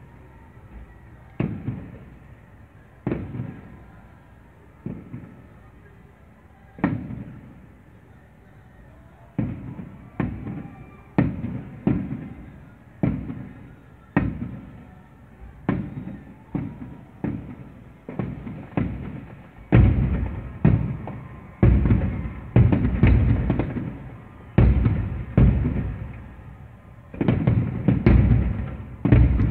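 Aerial firework shells bursting in booms with a rumbling tail after each. They are spaced a second or two apart at first, come faster after about nine seconds, and become a near-continuous volley in the last ten seconds.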